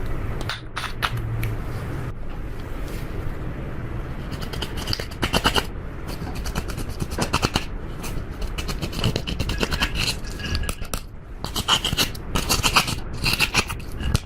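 Slime being squished and kneaded by hand, with several bursts of rapid crackling clicks and pops.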